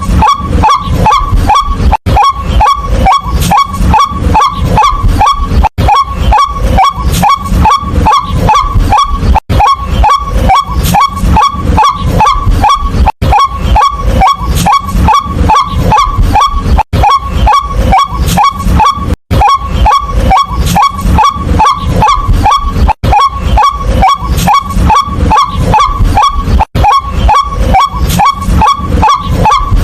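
White-breasted waterhen calling: a loud, fast series of harsh 'kwak' notes, about three to four a second, with a very short break every few seconds.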